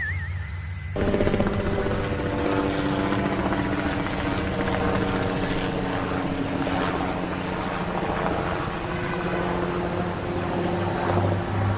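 A motor running steadily, with a steady hum of several held pitches, starting abruptly about a second in.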